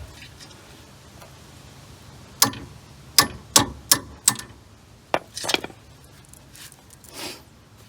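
A handful of sharp metallic clicks and clinks from hand tools on the sway bar end-link nut, irregularly spaced over a few seconds.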